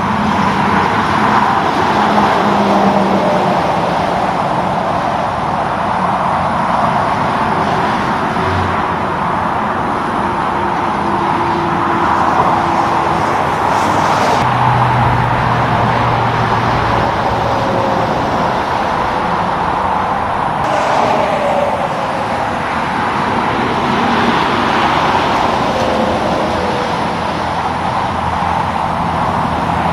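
Road traffic going by: a steady rush of tyre and engine noise from passing cars and trucks, with engine tones of individual vehicles rising and fading and a slowly falling whine as one passes about two-thirds of the way through.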